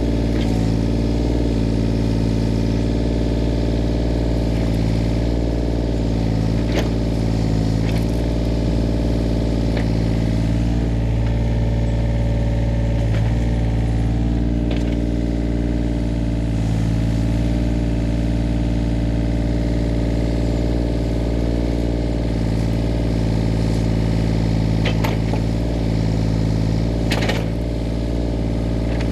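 An engine running steadily at an even speed, with a few short knocks or clunks scattered through.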